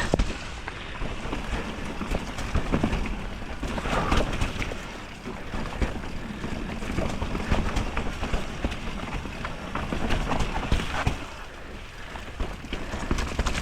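Radon Swoop mountain bike descending a wet, rooty downhill trail in heavy rain: a steady rush of wind and rain noise on the camera microphone, with tyre noise and frequent short rattles and clacks as the bike goes over roots.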